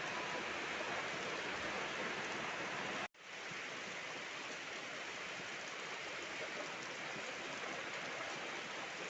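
Steady, even hiss of heavy rain. About three seconds in it cuts out for an instant and comes back slightly quieter.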